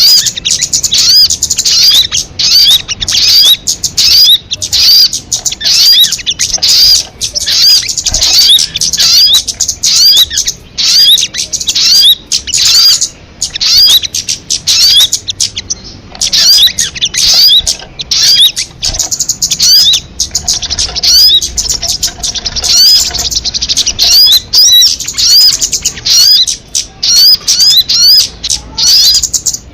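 Sogon bird calling without pause: loud, high hooked chirps repeated two or three a second.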